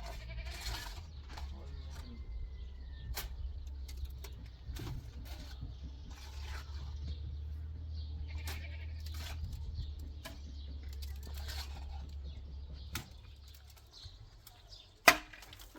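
Small livestock bleating on and off over a steady low rumble that stops near the end, with scattered clicks and one sharp knock, the loudest sound, shortly before the end.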